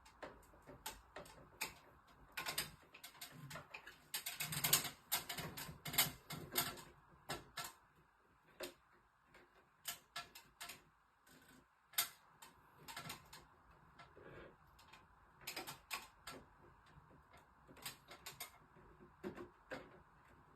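Irregular light clicks and taps of small hard objects being handled, with a denser run of rattling clicks about four to seven seconds in.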